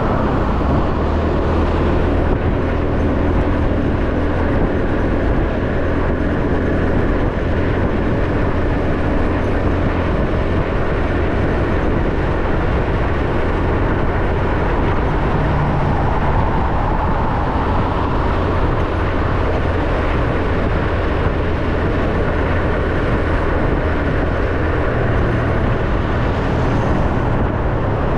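Motorbike running at a steady cruise, its engine hum mixed with wind and road noise.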